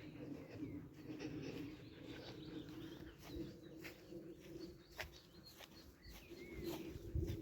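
Wild birds chirping, with short high calls scattered through and a low cooing underneath.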